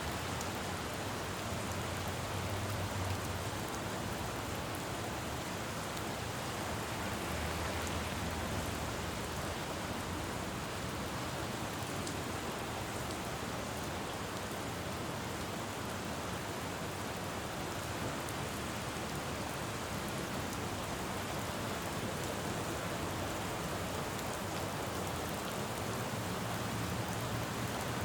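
Steady rain falling on a city road, with a low rumble of road traffic swelling and fading a few times.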